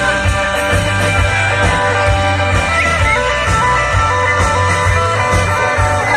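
Live rock band playing an instrumental passage with no vocals: guitar carries held, stepping notes over a steady bass pulse.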